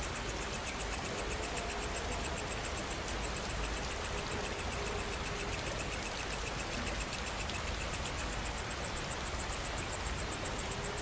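Steady rain falling, with insects trilling in rapid, even pulses high above it and a second, lower insect pulsing more faintly.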